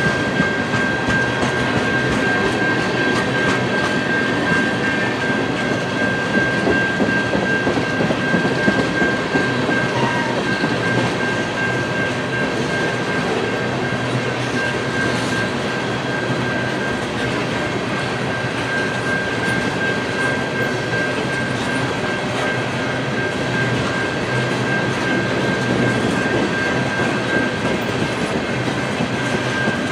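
Tank cars of a long freight train rolling past on the rails, with a steady high squeal over the rolling noise.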